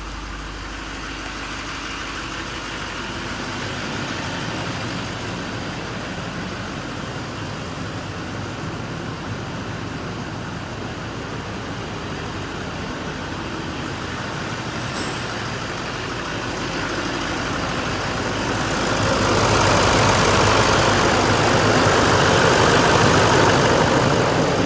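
6.6-litre LML Duramax V8 turbo-diesel of a 2016 GMC Sierra 2500HD running at idle, then getting clearly louder about three-quarters of the way through and staying up, as when the engine is revved and held.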